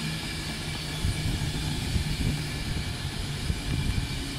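Express passenger train passing at speed, a steady rumble of wheels on rail with a low hum underneath.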